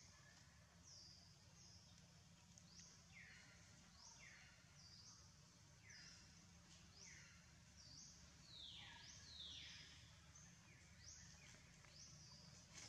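Faint bird calls, repeated short chirps that slide downward in pitch, about one or two a second, over a low steady hum.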